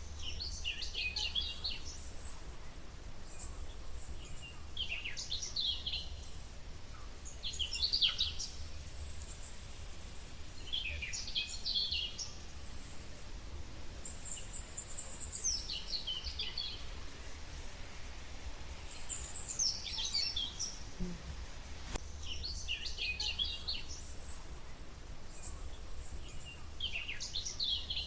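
A bird singing a short, chattering phrase again and again, about every three to four seconds, over a steady low rumble.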